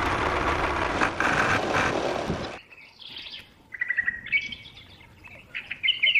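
A loud, steady rushing noise that cuts off about two and a half seconds in. Birds chirping follow, short repeated chirps that carry on to the end.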